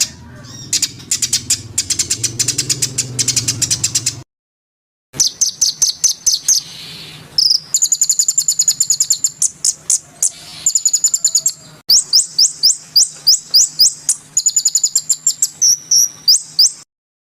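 Caged songbirds singing: fast runs of high, sharp chirps repeated several times a second. This is a spliced bird-song recording that cuts abruptly to silence about four seconds in and again near the end.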